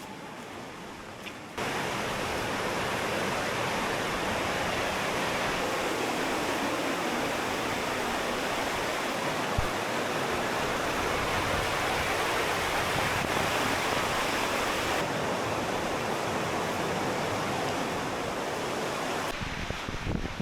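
Rushing water of a river cascade, a steady even rush that starts abruptly about a second and a half in and cuts off shortly before the end.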